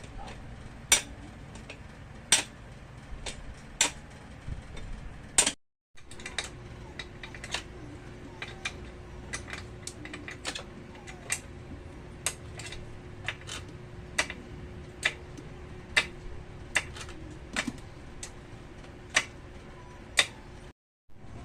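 Hand tools clicking and knocking on metal while a motorcycle chain adjuster is worked on: sharp, irregular clicks about once a second. A faint steady hum joins after about six seconds.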